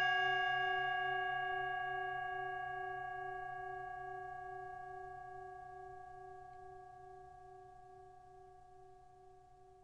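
Singing bowl ringing out after a single strike, with several clear tones that fade slowly and evenly. The lowest tone pulses gently as it dies away.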